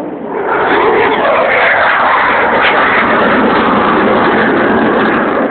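Airplane passing low over the crowd: a loud, steady rushing engine noise that swells about half a second in and eases off near the end.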